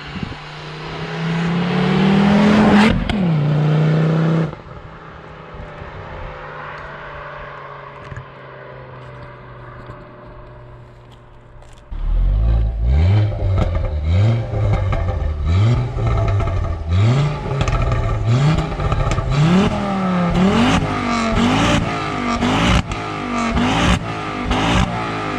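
Ford Focus RS Mk2's turbocharged 2.5-litre five-cylinder, fitted with an HG Bull downpipe, revving. One rev climbs for a few seconds and drops off, the engine then runs more quietly, and from about halfway it is blipped again and again, about once a second.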